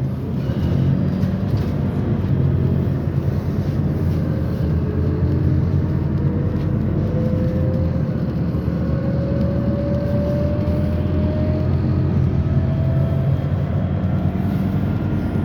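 Scania CN280UB CNG city bus running under way, heard from inside the cabin: a steady low engine and road hum, with a faint whine that rises slowly in pitch from about four seconds in until near the end as the bus gathers speed.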